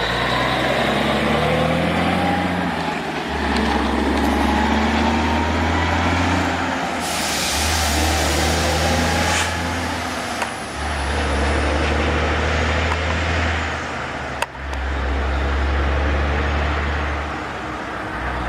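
Loaded Peterbilt 359 logging truck's diesel engine labouring under load, its low rumble swelling and easing every few seconds. A hiss of air about seven seconds in.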